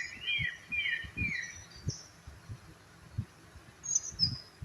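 Forest birds calling: a run of short falling whistled notes, about three a second, that fades out after about a second and a half, with a few higher chirps near the end. Soft low thumps sound underneath.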